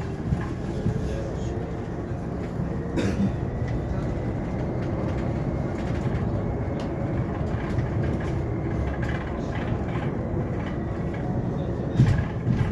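Cabin sound of a Hyundai Elec City 2 electric bus on the move: a steady low road-and-tyre rumble with light rattles, two sharp knocks, the louder one near the end, and a faint steady whine.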